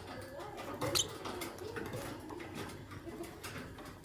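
Lovebirds chattering in quick squeaky chirps and clicks, with one sharp high chirp about a second in.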